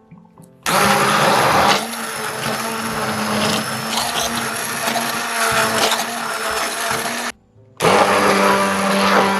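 Bamix stick blender puréeing cooked taro and sugar into a smooth paste. The motor starts about a second in, runs steadily, stops briefly near the end and starts again.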